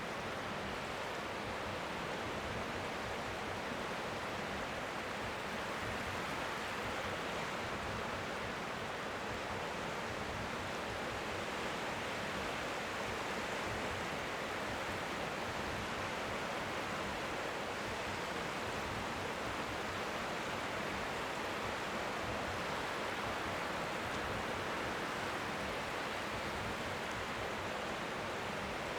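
Strong wind at the seashore making a steady hiss with a fluttering low rumble, over faint waves lapping on the shore.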